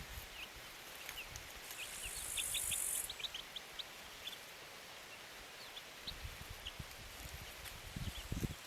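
Small birds giving many short, high chirps, with a high-pitched insect-like buzz for about a second early on and a few low thuds near the end.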